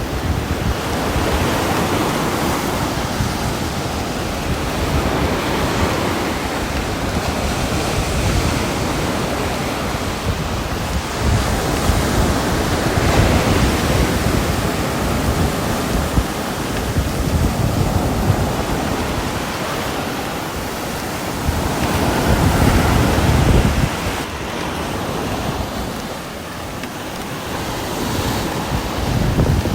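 Steady heavy rain, a dense rushing hiss that swells and eases every few seconds.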